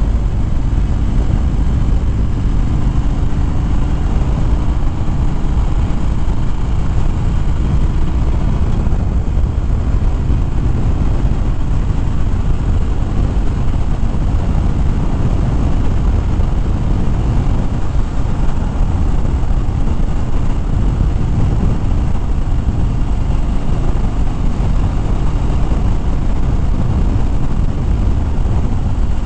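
Harley-Davidson Fat Bob's V-twin engine running steadily at cruising speed, heard from the rider's seat under heavy, even wind rush.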